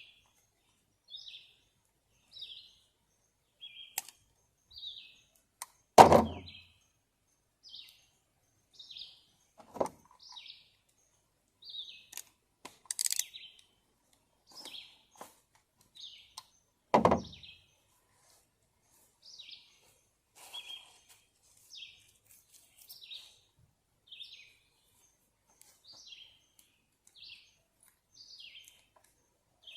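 A bird repeating a short chirp about once a second, with two loud thumps about six and seventeen seconds in and a few fainter knocks between.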